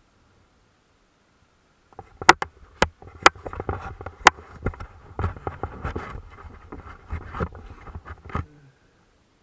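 Mountain bike clattering over rough ground: a run of sharp knocks and rattles over a low rumble, starting about two seconds in and stopping near the end.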